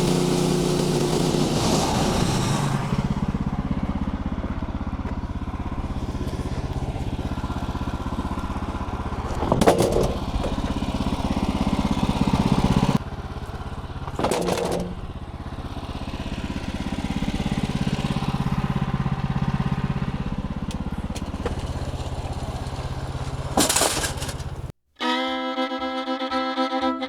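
Engine running steadily, in several cut-together stretches with a few brief knocks, then stopping suddenly; bluegrass fiddle music starts near the end.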